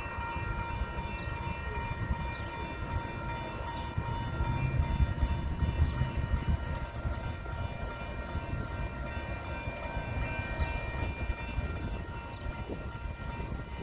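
Train rolling by with a heavy low rumble that swells about four seconds in, under a steady high-pitched whine held throughout.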